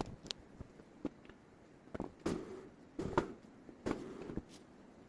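Firewood being worked: a string of sharp wooden knocks and clatters at uneven intervals, about one or two a second.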